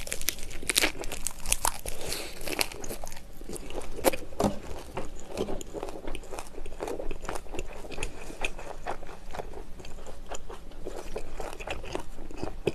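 Close-miked chewing of a mouthful of lettuce wrap (ssam) filled with grilled Iberico pork rib and salted squid: irregular wet crunching of the fresh leaves and soft mouth sounds.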